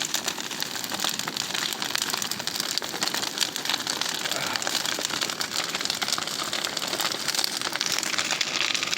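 Large bonfire burning hard: a dense, steady crackle and hiss with many small pops.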